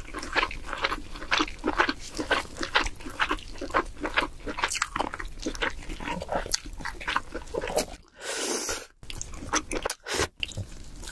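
Close-miked eating of king crab meat: many quick wet clicks of chewing and lip smacking. About eight seconds in, a longer sucking noise.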